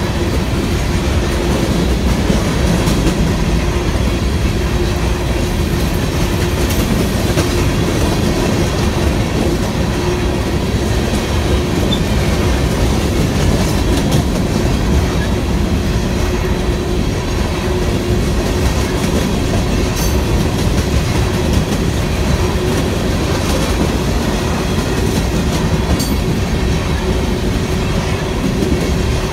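BNSF freight train cars rolling steadily past, with a continuous wheel-on-rail rumble and clatter. A steady whine runs through it, and there are a few sharp clicks.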